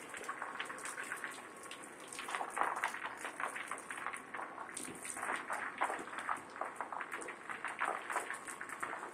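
Rain-like pattering: a dense, uneven shower of many small ticks and taps, growing heavier about two and a half seconds in.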